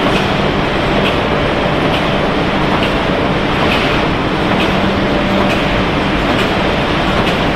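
Snack-chip production line machinery running: a steady, loud mechanical din with a low hum and a light click repeating a little under once a second.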